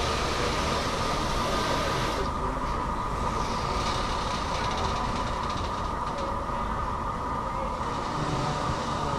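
Great Southern passenger train's stainless-steel carriages rolling past: a steady rumble of wheels on rail with a steady whine running through it. A hiss above it drops away about two seconds in.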